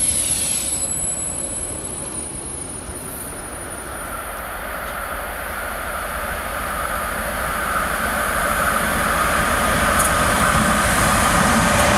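An electric commuter train pulls away with a thin high-pitched whine that stops a few seconds in. Then a locomotive-hauled passenger train approaches, its rumble and rail noise growing steadily louder.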